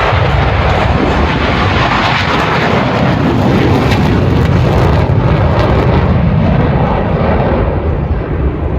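USAF Thunderbirds F-16 fighter jet engines roaring past in a flyby, strongest a few seconds in, the hiss dying away toward the end as the jets move off.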